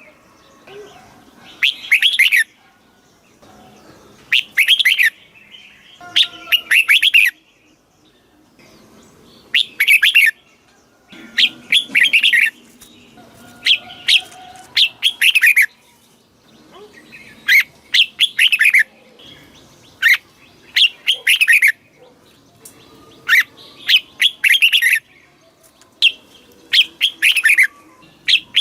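Red-whiskered bulbul singing: short, bright phrases of several quick sweeping whistled notes, repeated about every two seconds.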